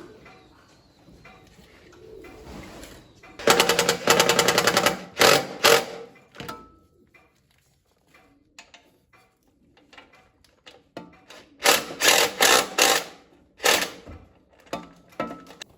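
A power tool rattling in short rapid bursts, a longer run a few seconds in and a cluster of shorter ones later, with small metal clicks from handling in between.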